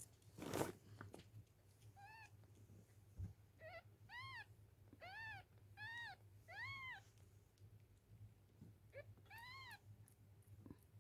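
Newborn kittens mewing: about eight short, high-pitched mews, each rising then falling in pitch. A brief rustling noise, the loudest sound, comes about half a second in.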